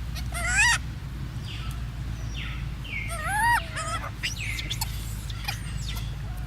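A young monkey squealing: two short bursts of high, rising-and-falling squeaks, about half a second in and about three seconds in, with fainter squeaks between them. A steady low hum runs underneath.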